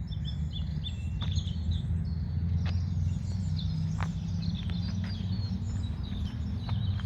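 Small birds chirping and singing in quick, overlapping short calls over a steady low rumble.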